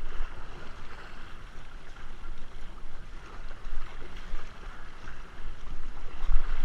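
Water splashing and sloshing around a kayak, with wind buffeting the microphone in a steady low rumble.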